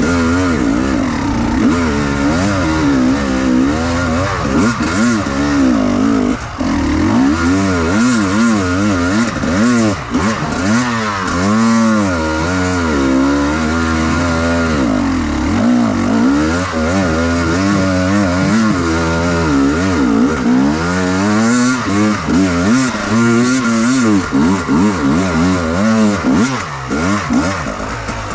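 Enduro motorcycle engine revved hard up and down over and over, the throttle worked in quick uneven blips without a pause.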